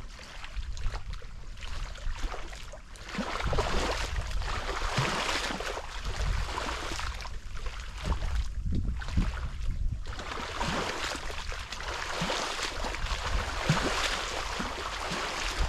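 Wind gusting and buffeting the microphone with a low rumble, in two long surges with a lull about halfway through.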